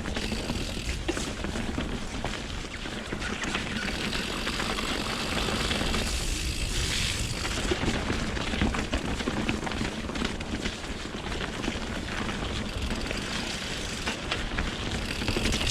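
Mountain bike being ridden on Pirelli Scorpion tyres: steady rolling tyre noise with small rattles and clicks from the bike, over a low rumble of wind buffeting the microphone.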